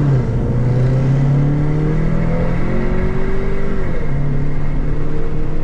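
Turbocharged Ford Mustang's engine running under load at steady revs, its pitch dipping just after the start and again about four seconds in.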